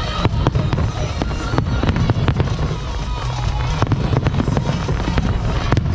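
Aerial fireworks display: a rapid, continuous string of bangs and crackles over a steady low rumble of overlapping bursts.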